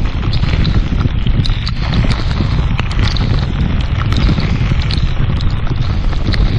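Heavy thunderstorm rain with wind buffeting the microphone in a steady low rumble, and many scattered sharp taps of raindrops striking the camera.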